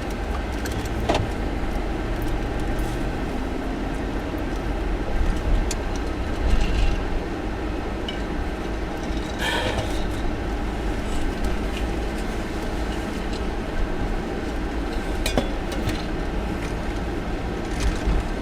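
Road and engine noise heard from inside a moving car's cabin: a steady low rumble with a few light clicks and rattles.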